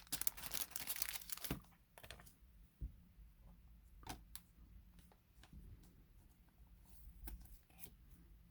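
Baseball cards and pack wrappers being handled: dense rustling for about the first two seconds, then scattered light clicks and taps of cards.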